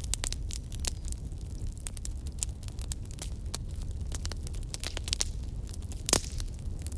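Wood fire crackling in a fireplace: irregular sharp pops and snaps over a low steady rumble, with one louder crack about six seconds in.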